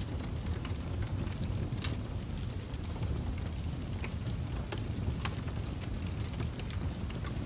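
Campfire crackling, with sharp pops and snaps scattered irregularly, several a second, over a steady low rumble.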